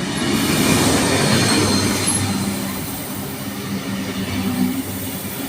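Diesel locomotive 4501 passing while hauling a heritage train. A low steady engine hum runs under the noise of wheels on the rails, loudest about a second in and then easing slightly.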